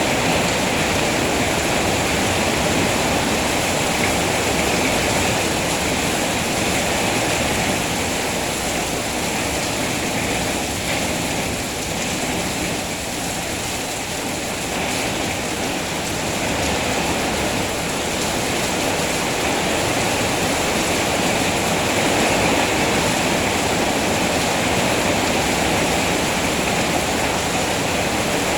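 Steady rain falling as an even, continuous hiss, easing slightly for a few seconds midway.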